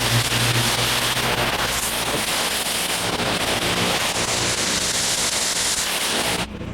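Pressure washer spraying pavers: a loud, steady hiss of the water jet over an engine hum that fades about two seconds in. The sound cuts off suddenly near the end.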